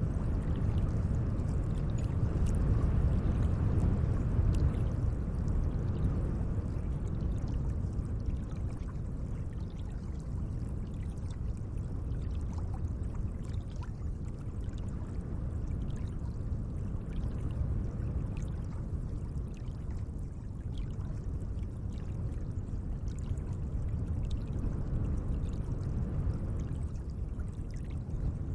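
Gentle lake water moving and lapping: a steady low rush of water with scattered small splashes and drips.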